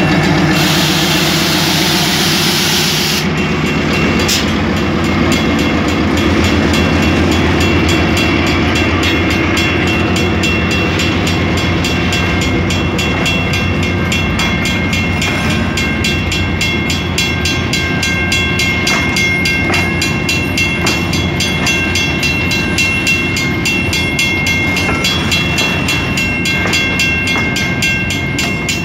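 CRRC Ziyang CDD6A1 diesel locomotive going past close by, its engine hum heard at first, with a hiss lasting about three seconds. Then the steady rolling rumble of closed boxcars on the track, with thin, steady high-pitched squealing tones over it and a few clicks.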